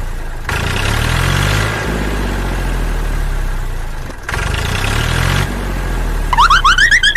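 Vehicle engine running at idle with the revs rising and falling twice, broken by two sudden cuts. Near the end a run of quick rising squeaks comes in.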